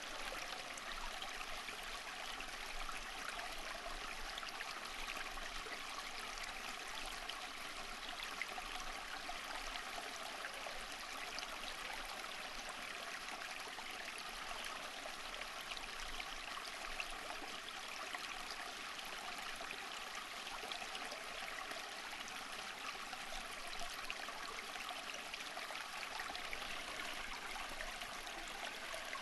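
Running water from a stream or small cascade, a steady, even flow with a fine texture of small splashes and trickles.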